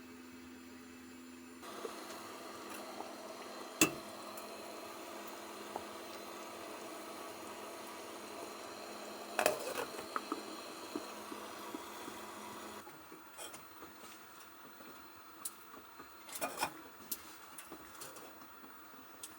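Scattered knocks and clatters of hard objects being handled, over a low steady hum. The hum changes abruptly twice.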